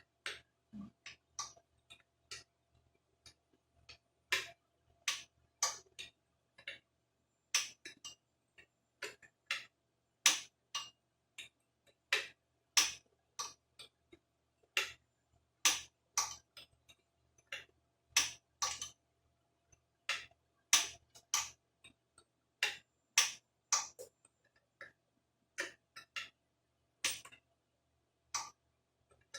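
Sharp clicks and taps at uneven spacing, about one or two a second, from hand tools and small carburetor parts being worked on during reassembly.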